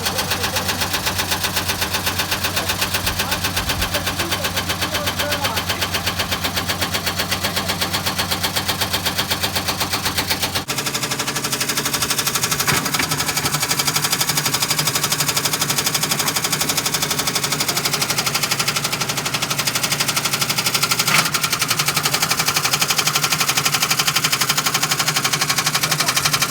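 Washing machine drum loaded with bricks spinning, making a rapid, even banging like machine-gun fire. About eleven seconds in the deep low hum drops away and the banging carries on lighter.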